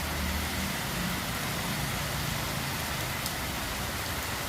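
Heavy rain pouring steadily, with a low engine rumble from a vehicle under it for the first couple of seconds.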